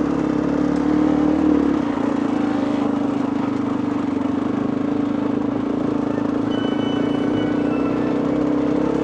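Dirt bike engine running steadily while riding a trail, its low rumble easing a little about two seconds in.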